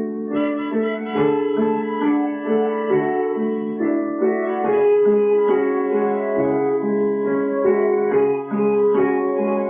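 Piano playing an instrumental passage of a song: held notes and chords that change about every half second, with no singing.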